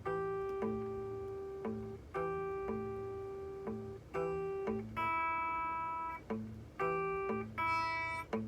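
Solo guitar playing a rockabilly fingerpicked pattern: low bass notes alternating with plucked chord notes, about two a second. The chord changes about five seconds in.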